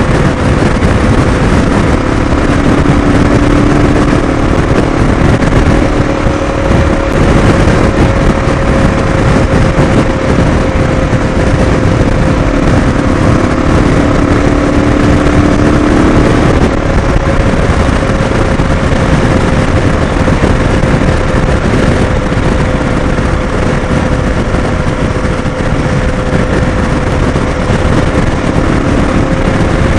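Motorcycle under way at road speed: a steady rush of wind and road noise with the engine's steady drone. A lower engine note comes and goes twice.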